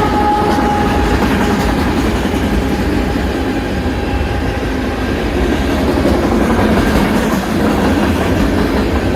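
Freight train rolling past close by with a steady, loud rumble and clickety-clack of wheels on rail. The tail of a held horn note fades out over the first few seconds.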